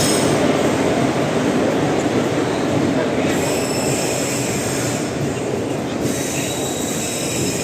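Passenger train hauled by a WAP 4 electric locomotive rolling along the platform, a steady rumble of wheels on rail. High-pitched wheel squeal comes in about three seconds in and again near the end.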